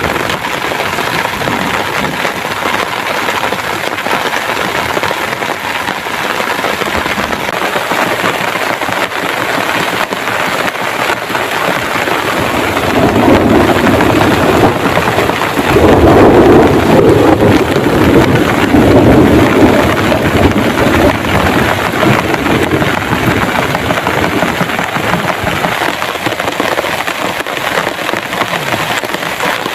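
Heavy rain falling steadily, with a long roll of thunder rumbling in about halfway through and fading after several seconds.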